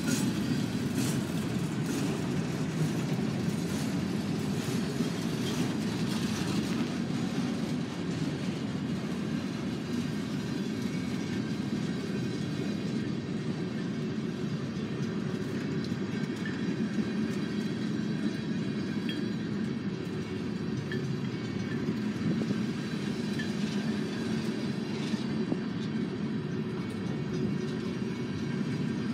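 Freight cars of a long train (boxcars and tank cars) rolling past, their steel wheels making a steady low rumble on the rails, with clicks over the first several seconds.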